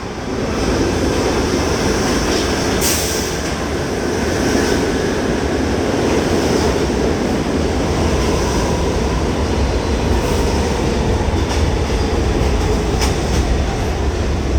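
New York City subway D train rolling into the station, a loud steady rumble with a few sharp clicks of the wheels.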